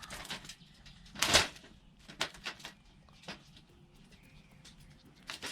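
A big squirrel caught in a trap jumping and struggling, rattling the trap in one loud burst about a second in, then a few sharp knocks and clicks.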